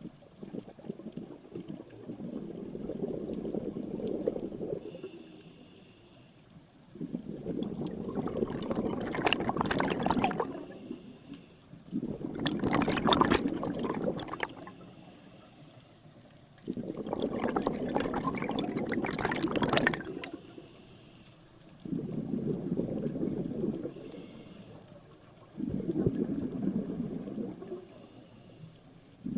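Scuba diver breathing underwater through a regulator: about every four to five seconds a burst of exhaled bubbles rumbles and gurgles, some breaths carrying a sharper hiss.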